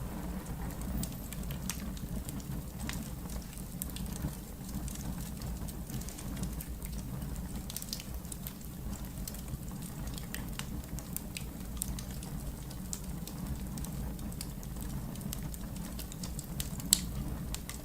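Wood fire burning in a fireplace: scattered small crackles over a steady low rumble of the flames, with one sharper pop near the end.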